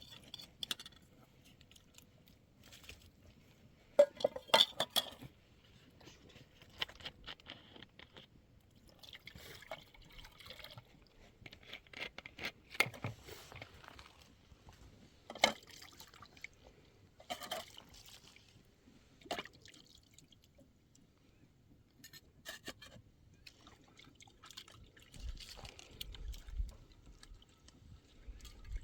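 Scattered clinks and short clatters with splashes of liquid, like vessels being handled and water poured, the busiest burst about four seconds in.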